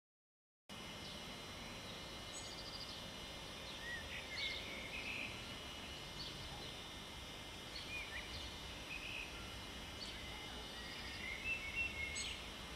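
Birds chirping and twittering in short repeated calls over a steady background hiss, starting after a moment of silence at the start.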